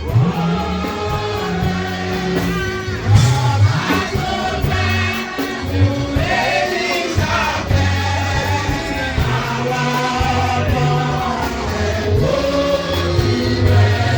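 Gospel music: a choir singing over a band with a steady bass line.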